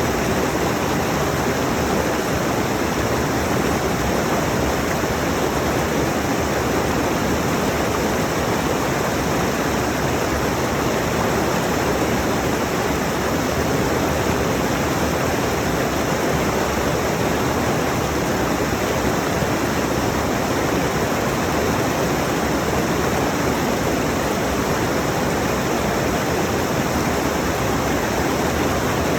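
Rushing mountain stream, a loud, steady rush of water without let-up.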